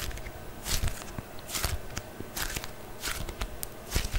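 Close-miked ASMR trigger sounds: irregular short crackling, crunching noises, a few a second.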